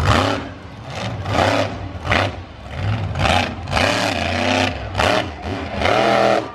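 Monster truck engine running at idle with repeated revs, swelling and falling every second or so.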